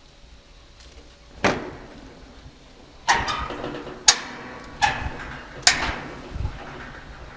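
Footsteps on scaffolding: five sharp knocks, each with a short ring. The first comes about a second and a half in, and the other four follow roughly a second apart.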